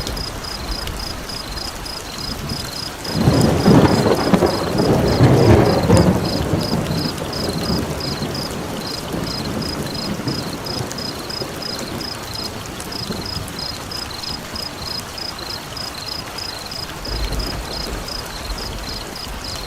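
Steady rain with a rumble of thunder that swells about three seconds in and fades over some four seconds, under a high chirp repeating two or three times a second throughout.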